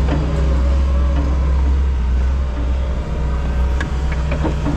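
A vehicle engine running steadily with a deep, even drone, with a few faint knocks near the end.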